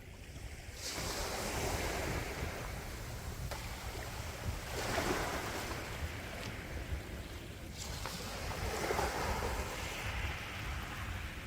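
Sea waves washing ashore, the surf swelling in three surges about a second, five seconds and nine seconds in over a steady low rumble.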